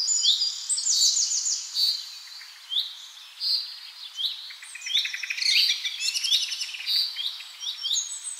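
Birds chirping: a busy chorus of short, high chirps that fall in pitch, with quick trills in the middle.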